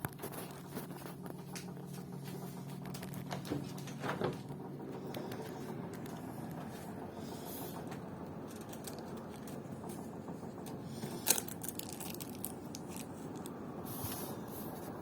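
Air conditioner running with a steady hum, broken by irregular sharp knocks, the loudest about eleven seconds in. The knocking is the fault the owner is recording.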